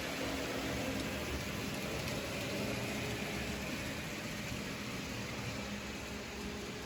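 Model train running on a layout: a steady mechanical hum with a faint constant whine and no distinct clicks or changes.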